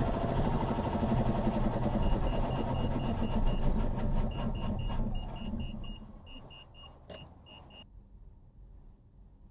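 Vehicle noise with rapid, high electronic warning beeps coming in short runs of several beeps each, starting about two seconds in. The sound cuts off abruptly near the end.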